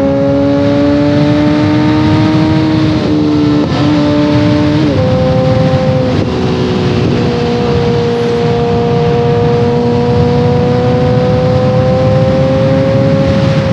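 Motorcycle ride on a 2014 Kawasaki ZX-14R, its inline-four running through a full Brocks Alien Head 2 exhaust. The exhaust note climbs slowly, steps down several times between about three and six seconds in, then climbs steadily again to near the end.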